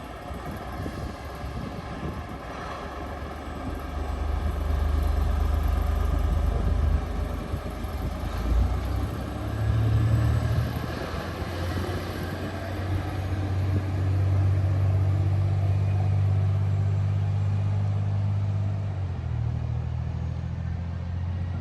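Road traffic passing close by: a low engine and tyre rumble that swells about four seconds in and stays heavy.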